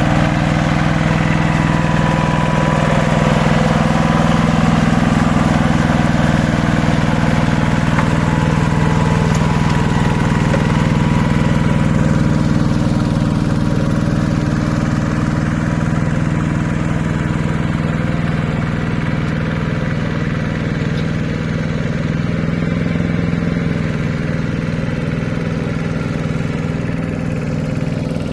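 Walk-behind hand tractor's engine running steadily at a constant speed, its upper clatter easing off a little past the halfway point.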